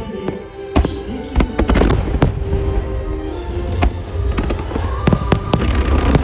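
Aerial firework shells bursting in quick succession, sharp bangs several times a second, over music from loudspeakers, with the bursts growing denser near the end.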